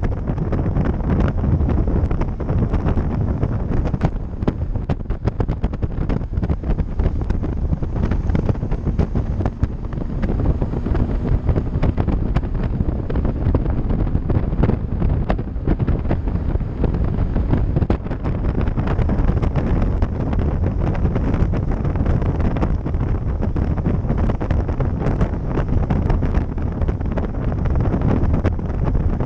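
Heavy wind noise buffeting the microphone of a camera on a moving bicycle: a steady, dense low rumbling rush.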